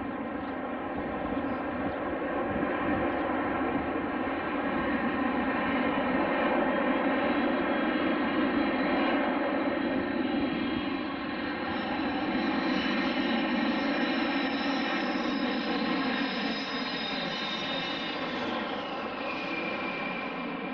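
Fixed-wing aircraft engines running loud and steady, a drone with a stack of steady tones, and a high whine that drops in pitch near the end as the aircraft passes.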